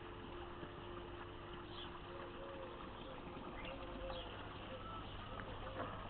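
Birds calling: scattered short high chirps, and from about two seconds in a run of short low repeated notes, over a steady low hum.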